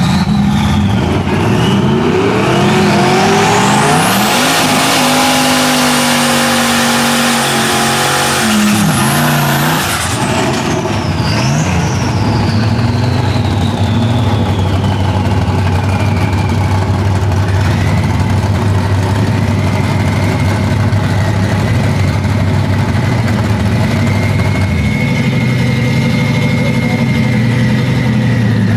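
Turbocharged LS1 V8 of a 1998 Camaro Z28 with a single T-76 turbo, revving hard through a burnout, with a high whine climbing along with the revs. At about ten seconds the revs drop away to a steady low idle as the car rolls forward, and a fainter whine slowly falls.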